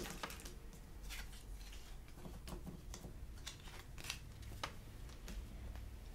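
Trading cards being handled and flipped through by hand: irregular light slides, clicks and rustles of card stock, a few a second.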